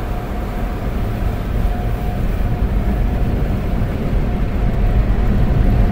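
Automatic car wash machinery heard from inside the car's cabin: a steady low rumble that slowly grows louder, with a faint steady hum over it.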